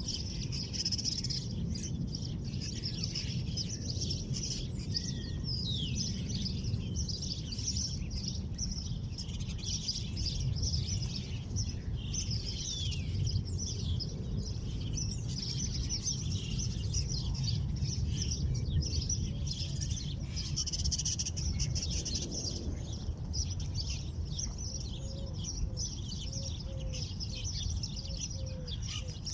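Many small birds chirping and calling at once in a dense, continuous chorus of short high chirps, with a steady low rumble underneath.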